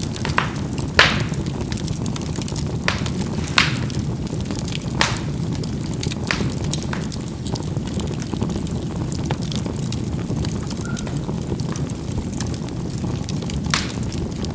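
Charcoal burning in a fireplace: a steady low rumble of flame with sharp pops and crackles every second or two, the loudest about a second in.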